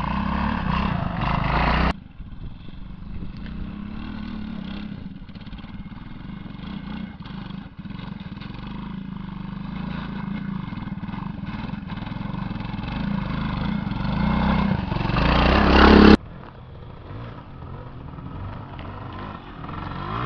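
Classic trials motorcycle engines running at low revs as they climb a rocky track. The sound cuts off suddenly about two seconds in. Another bike then grows steadily louder as it nears, up to the loudest point at about sixteen seconds, where it also cuts off abruptly.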